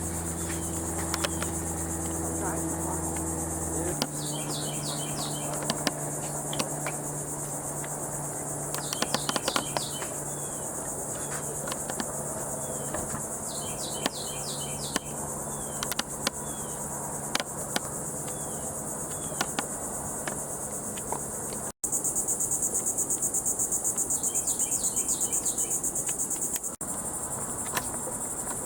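Steady high-pitched chorus of insects buzzing, with a bird repeating a short chirping phrase every few seconds. About two-thirds of the way through the buzz turns louder and pulses rapidly.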